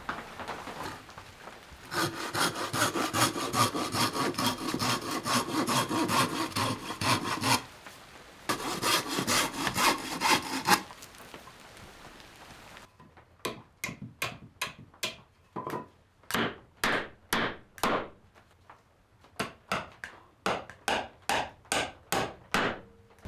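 Wood being cut with a hand saw. There are two runs of rapid, close-set strokes, then a pause. After that come slower, separate strokes, about two a second.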